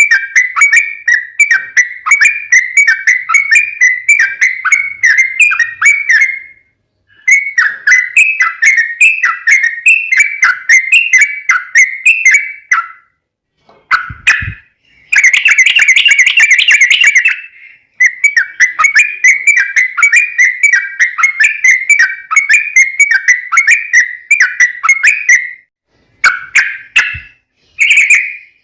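Yellow-vented bulbul (trucukan) singing long, rapid runs of bubbly, whistled notes, about four a second, in several long phrases split by short pauses. About halfway through comes a brief low knock, then a denser, harsher burst of song, and the phrases turn shorter near the end.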